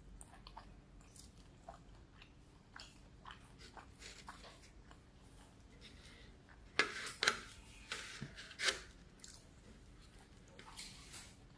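Close-up chewing with soft, wet mouth clicks, then about four loud, sharp crisp crackles a little past halfway as a fried tortilla egg roll is broken apart by hand. Softer crackling follows near the end.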